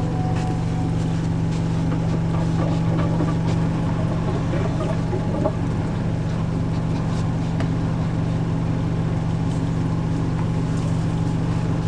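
Front-loading washing machine spinning at full speed, a steady hum with a little vibration.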